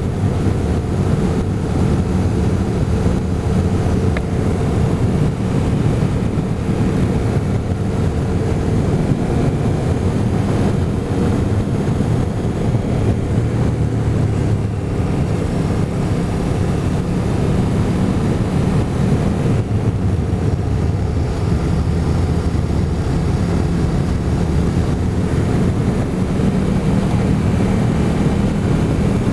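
Motorcycle engine running at a steady cruising pitch, with wind rushing over the microphone.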